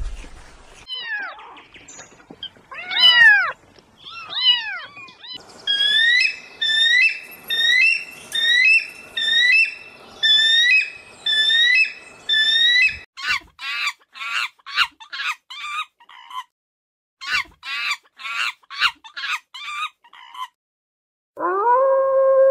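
A run of animal calls. First come a few cat meows that fall in pitch. Then come long series of short, high, rapidly repeated hawk calls, and about a second before the end a wolf starts one long, steady howl.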